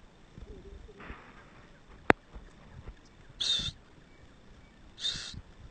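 Black francolin (kala teetar) calling: two short, harsh high notes about a second and a half apart in the second half. A single sharp click about two seconds in is the loudest sound.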